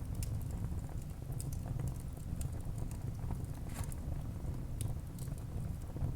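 Wood fire burning in a fireplace: irregular crackles and small pops over a steady low rumble of the flames.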